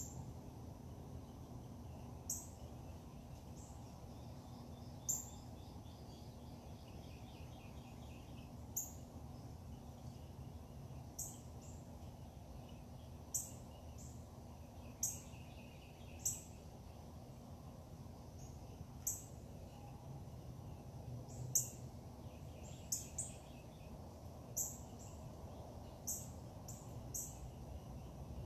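Backyard birds chirping: short, sharp, high notes every second or two, with fainter trills in between, over a steady low background rumble.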